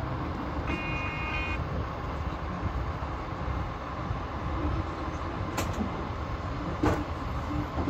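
Passenger train in motion, heard from inside the carriage: a steady low rumble of the wheels on the rails. A brief high tone sounds about a second in, and two sharp clicks come near the end.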